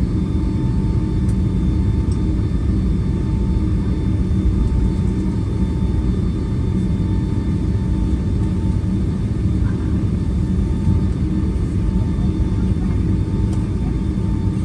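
Cabin noise of a Boeing 757-300 moving on the ground after landing: a steady low rumble from the engines at idle, with a thin steady engine whine above it.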